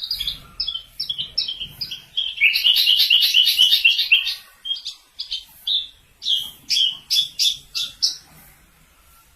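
Javan bush lark (branjangan) singing: a varied run of quick, high chirping notes, with a rapid, loud trill from about two to four seconds in.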